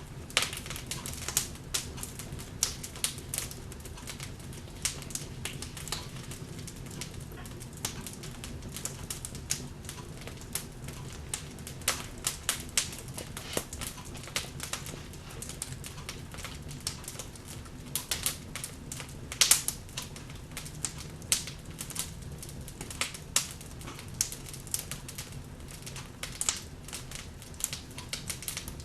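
Wood fire crackling in a fireplace: irregular sharp pops and snaps from the burning logs over a steady low background, with a cluster of louder pops about two-thirds of the way through.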